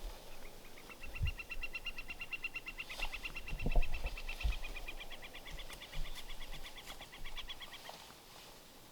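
A long, high, even trill from a small wild animal, lasting about seven seconds before it stops, with a few soft low thumps of handling or movement along the way.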